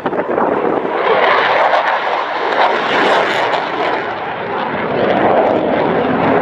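Aircraft flying past during a flying display: a loud, steady rushing engine noise whose tone slowly sweeps down and back up as it passes.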